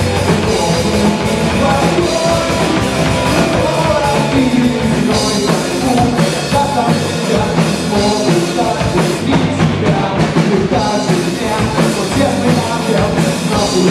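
Rock band playing live, with drum kit and guitars, in an instrumental passage between sung lines of the song.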